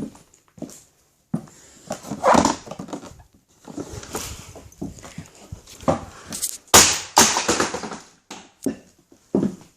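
Plastic parts of a vacuum cleaner cracking and crunching under high-heeled shoes, in a string of irregular sharp cracks and scraping crunches. The loudest crack comes about seven seconds in.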